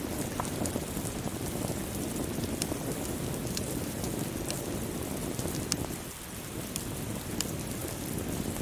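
Steady rain falling, with scattered sharp crackling pops from a wood fire. There is a brief lull in the rain about six seconds in.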